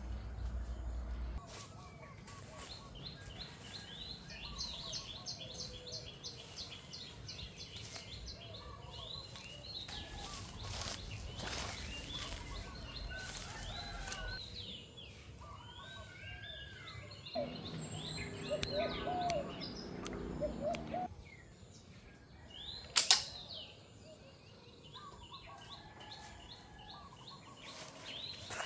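Small birds chirping and twittering, with a stretch of lower, louder bird calls in the middle. About two-thirds of the way through comes a single sharp snap, the loudest sound, like a slingshot being shot.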